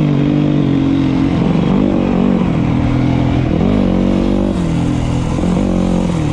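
Dirt bike engine running loudly, its pitch rising and falling several times as the throttle is worked.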